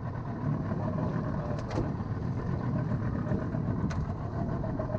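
A boat's engine running steadily under way, a constant low hum. Two short clicks come through it, a little under two seconds in and about four seconds in.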